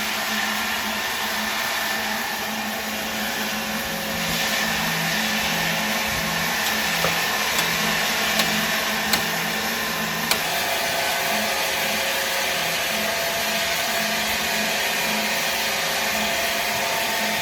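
Steady whirring of a running machine, with a few sharp clicks between about seven and ten seconds in.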